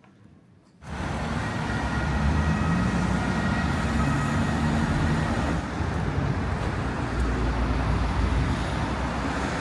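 Steady motor-vehicle and road noise with a low engine rumble, starting suddenly about a second in.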